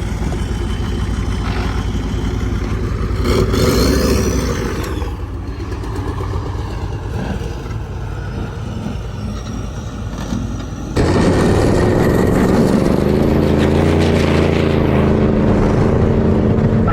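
Turbocharged IDI diesel truck engine revving hard while the truck spins a reverse donut. About eleven seconds in the sound jumps abruptly louder to a steady, high-revving engine note.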